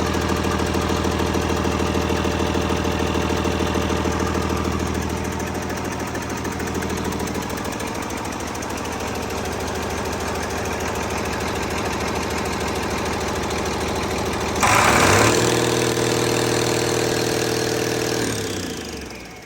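2012 Cummins ISL9 inline-six diesel engine running at a steady idle. About three-quarters of the way through it is revved up with a sudden jump in loudness, held at a higher speed for a few seconds, then winds down near the end.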